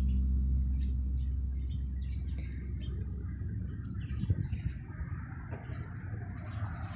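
Small birds chirping repeatedly, short high calls in quick runs. Background music fades out over the first couple of seconds.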